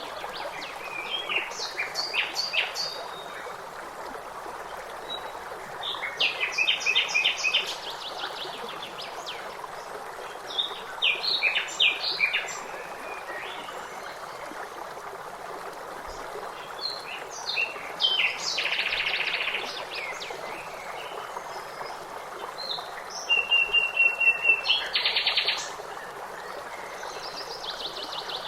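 Songbirds singing in short phrases every few seconds, quick high chirps and trills, over a steady rush of flowing stream water.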